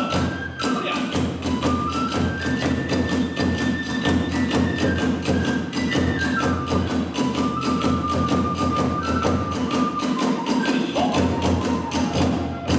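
Kagura hayashi ensemble playing fast: rapid beats of the drums and hand cymbals under a bamboo flute melody that climbs and then falls back. The music closes on a final strike at the end.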